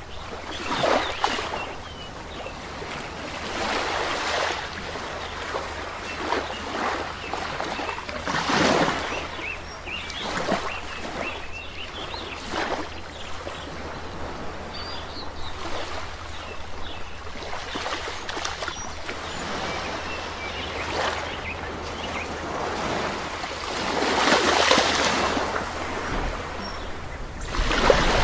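Sea waves breaking and washing on a shore in repeated swells every few seconds, with small birds chirping faintly in the background.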